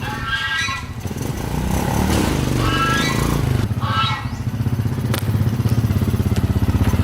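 Honda Supra X 125's single-cylinder four-stroke engine running, settling into an even pulsing idle in the last couple of seconds. A few brief high-pitched tones sound over it in the first half, and there is a sharp click about five seconds in.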